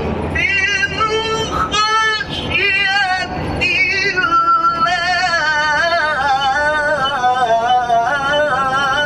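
An elderly man's voice chanting a Quranic recitation in a long melismatic line, the pitch held high and wavering in rapid ornamental trills. It comes in short broken phrases at first, then settles into a long, continuously wavering held passage about four seconds in.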